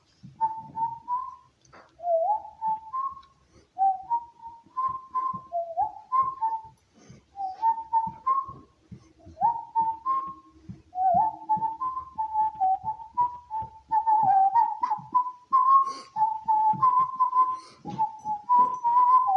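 A person whistling a tune by mouth in short phrases, with small upward slides between notes.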